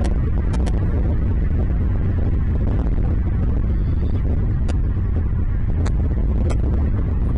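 Steady low rumble with a few brief, high-pitched bird chirps scattered through it.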